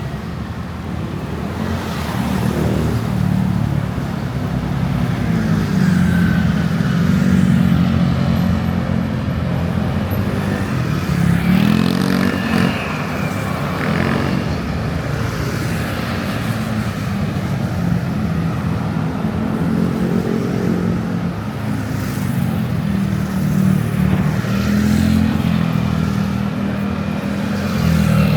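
Road traffic: vehicle engines running and passing, with one engine's pitch rising and falling about twelve seconds in.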